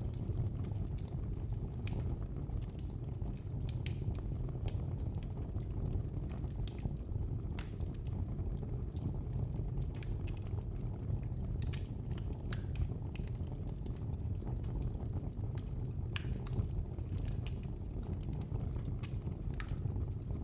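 Wood fire burning in a fireplace: a steady low rumble of the flames with irregular sharp crackles and pops, several close together in places.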